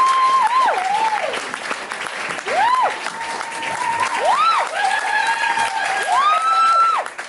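Audience applauding and cheering after a song, with several long high calls from the crowd that rise, hold and fall.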